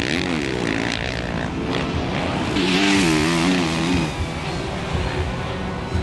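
Motocross race bikes' engines revving hard, the pitch rising and falling quickly as the throttle is worked over the track. The engine note is loudest about three seconds in.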